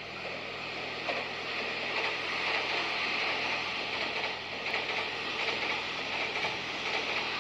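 An electric commuter train passing through a station at speed: a loud, steady rush of wheel-on-rail noise with a quick clattering running through it, building over the first second as the train arrives.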